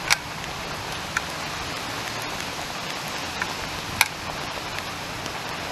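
Heavy rain pouring down steadily, with a few sharp ticks scattered through it.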